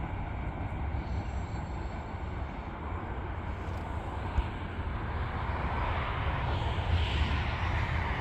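Steady low rumble of a freight train of tank cars rolling away along the rails, with a broad hiss that builds over the last few seconds. A single sharp knock is heard about four seconds in.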